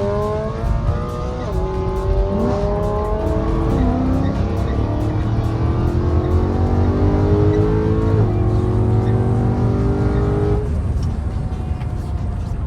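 BMW E92 M3's straight-piped V8 exhaust, really loud, under hard acceleration: the pitch climbs steadily, drops at gear shifts about a second and a half in and again about eight seconds in, then cuts off abruptly about ten and a half seconds in as the throttle closes, leaving the low rumble of the drive.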